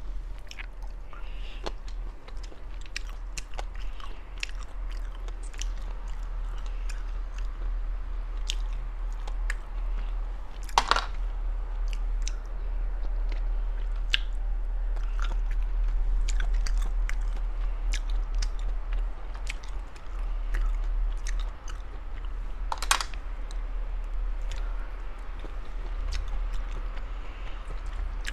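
Close-up eating sounds: steady chewing and biting of spicy sea snails, with many short sharp clicks and two louder ones about 11 and 23 seconds in.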